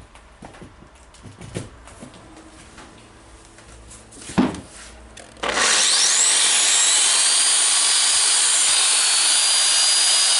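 A few clicks and a knock, then about halfway through the Eibenstock EHD 1300 diamond core drill's motor switches on, winds up quickly with a rising whine and runs loud and steady at full speed. It is the test run on a newly fitted armature, and the drill runs well.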